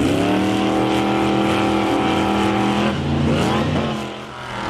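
Monster truck engine revving hard and holding high revs for about three seconds, then easing off. It gives a short second rev about three and a half seconds in, then drops back.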